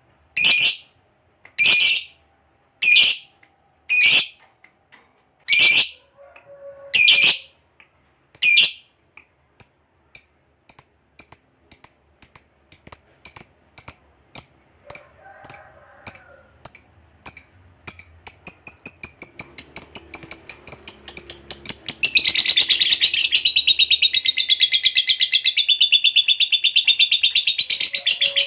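Lovebird giving sharp single shrieks about once a second, then a run of short chirps that quickens into a long, rapid, continuous chattering trill (the 'ngekek panjang' prized by lovebird keepers), fullest over the last several seconds.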